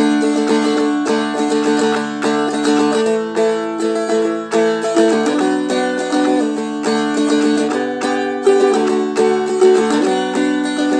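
Seagull Merlin, a four-string strumstick-style dulcimer, strummed in a steady rhythm, with the chords changing several times.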